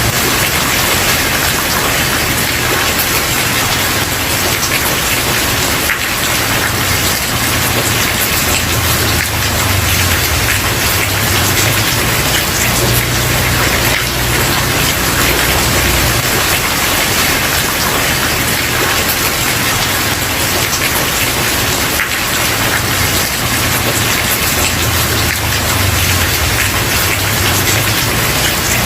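Steady, dense rain falling on a wooden porch, with a low rumble underneath.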